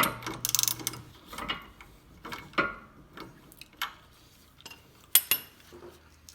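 Socket ratchet clicking in a quick run at the start, then single sharp metallic clicks and clinks of hand tools against the suspension bolts.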